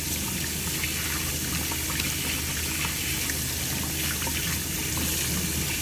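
Kitchen tap running steadily, water splashing into a bowl in the sink as it is rinsed out, with a few faint clicks.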